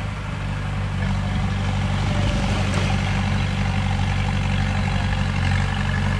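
Diesel engine of heavy construction machinery running steadily, slightly louder from about a second in.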